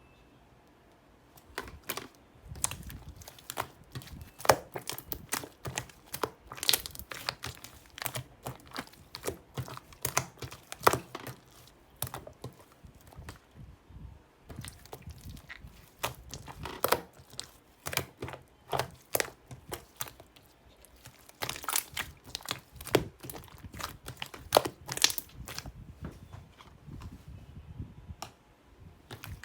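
Irregular crinkling, rustling and sharp clicks of something being handled close to the microphone, going on throughout.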